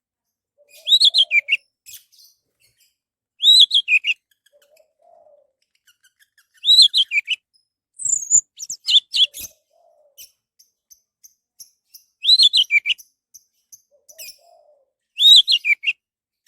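Orange-headed thrush singing: six short, rapid phrases of clear, rising-and-falling whistled notes, one about every three seconds, with thin high notes between them.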